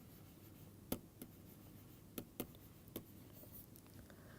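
A handful of faint, scattered taps and clicks from a pen writing on a surface, against near silence.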